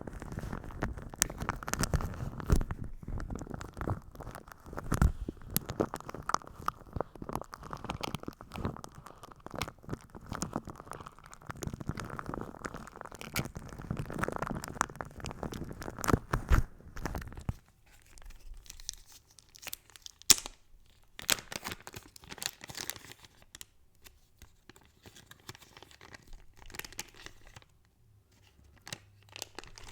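Close-miked ASMR trigger sounds: dense crackling and crinkling for most of the first half, which stops abruptly past the middle and gives way to sparser, quieter light clicks and taps.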